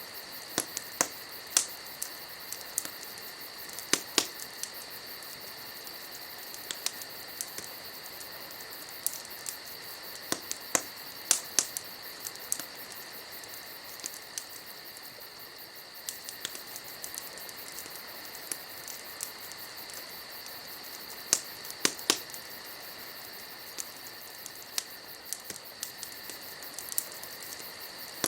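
Campfire crackling, with irregular sharp pops and snaps over a steady hiss, and a steady high-pitched drone behind it.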